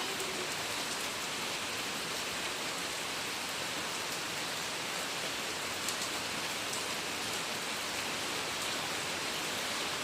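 Steady rain falling, an even hiss with a few sharp drop ticks here and there.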